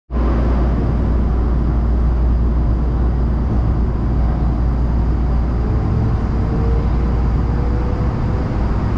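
Los Angeles Metro Rail train running: a steady low rumble with a hiss of wheel and track noise, and a faint rising whine in the second half.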